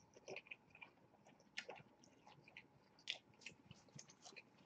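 Faint close-up chewing of a McDonald's burger: soft, wet mouth clicks and smacks come irregularly, a few a little louder than the rest.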